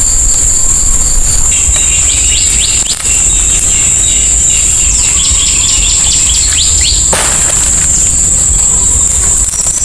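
Steady, high-pitched insect drone, with a bird giving a run of quick falling chirps in the first half and a short sharp sound about seven seconds in.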